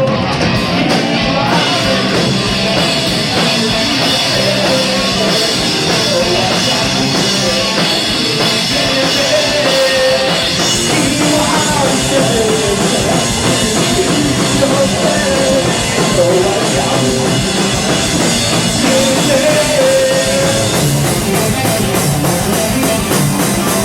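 A live rock band playing loud: drum kit and electric guitar, with no lyrics picked out.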